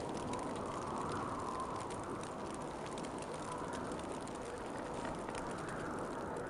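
Winter wind blowing steadily, swelling in gentle gusts about a second in and again near the end, with faint scattered ticks.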